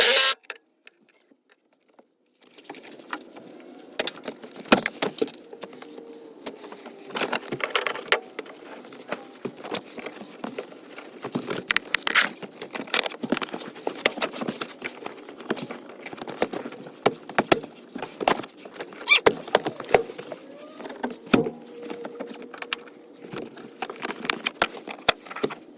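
Irregular clicks, knocks and rattles of hand tools and plastic trim being worked loose as a car's back seat and interior side panels are pulled out, starting about two seconds in.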